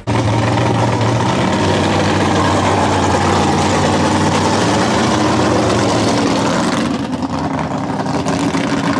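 A car engine running loud and steady, easing off slightly about seven seconds in.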